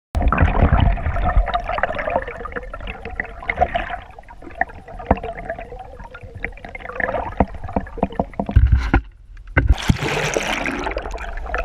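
Water sloshing and gurgling, with many small clicks and knocks throughout. It briefly drops out about nine seconds in, then returns as a louder hissing splash.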